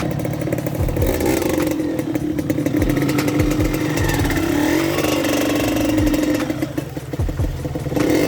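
Single-cylinder four-stroke trail motorcycle engine running under load, its pitch rising and falling as the throttle is worked over rough ground, with scattered low thumps.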